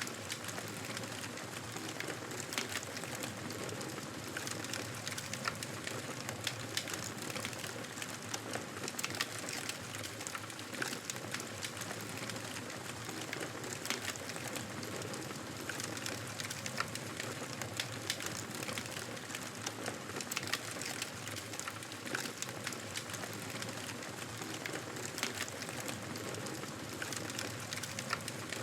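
Wood fire crackling in a fireplace: a steady hiss with frequent small, sharp pops and crackles.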